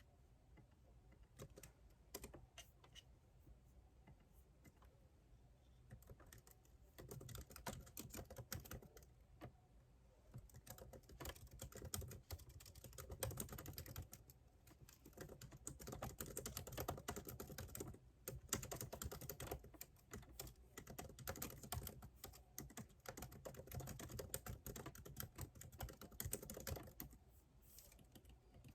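Typing on a computer keyboard. A few scattered keystrokes at first, then from about seven seconds in, fast continuous typing in runs broken by short pauses.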